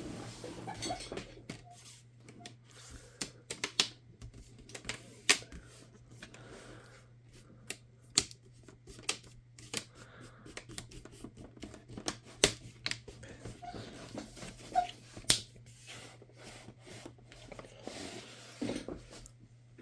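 Irregular sharp clicks and handling noise from a laptop's plastic parts and screen being worked on by hand, over a steady low hum.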